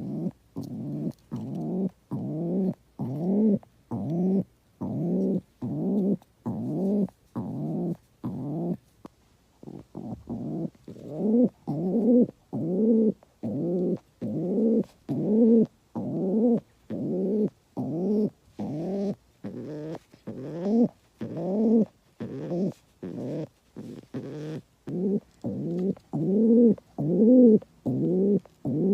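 A bird calling over and over: short, low, rising notes repeated about one and a half times a second with brief gaps between them.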